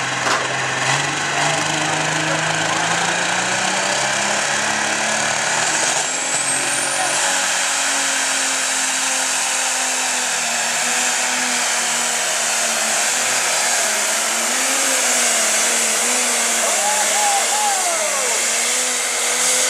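Light pro stock pulling tractor's biodiesel-fuelled, turbocharged diesel engine running flat out under load during a pull, with a heavy hiss and a continuous high whine. The engine note climbs slowly over the first few seconds and then holds, and a short rising whistle comes about six seconds in.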